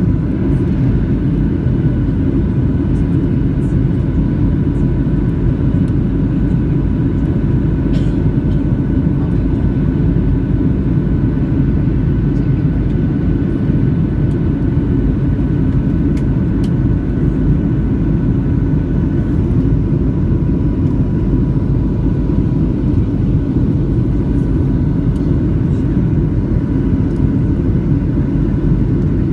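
Steady cabin drone of a Boeing 737-600 in flight, from its CFM56 engines and the airflow, with two faint steady whines above the rumble.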